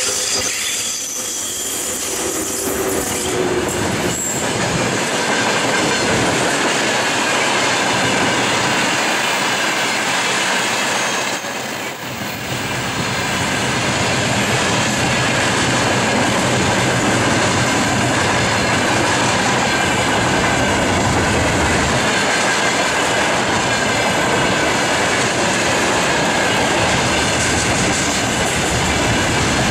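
Freight train wagons rolling past at speed behind a VL80S electric locomotive: a steady rumble and clatter of steel wheels on the rails, with a thin high ringing note from the wheels. The noise dips briefly about twelve seconds in.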